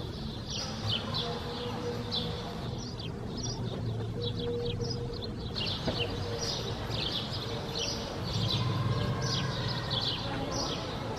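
Birds chirping in quick, repeated short calls, several a second, over a low steady rumble of city background noise that swells for a couple of seconds near the end.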